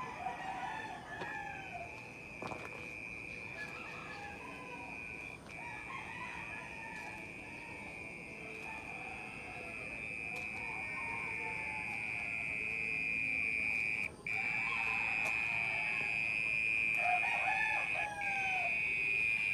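An insect's continuous high-pitched buzz, which the walker takes for a bug, with a few brief breaks. It grows louder toward the end. Roosters crow and cluck in the background.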